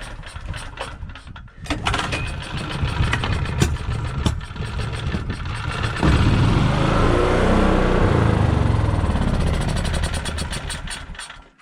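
Small portable generator engine being pull-started on partial choke: it sputters, then catches about six seconds in and runs for a few seconds before fading out and stalling near the end. The hard starting and stalling is put down by the owner to a dirty carburetor whose jets need cleaning.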